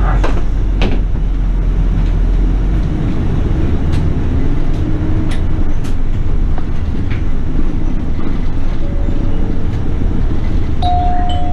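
Interior of a Toei city bus in service: a steady engine and road rumble with scattered short rattles and clicks. A steady tone begins near the end.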